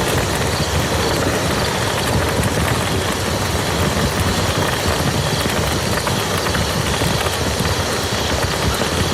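Steady rain falling on a muddy field: an even hiss with fine patter from individual drops.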